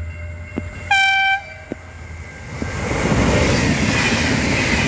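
V/Line VLocity diesel passenger train sounds one short, single-note horn blast about a second in. From about three seconds it passes close at speed, a loud rush and rumble of wheels on rail.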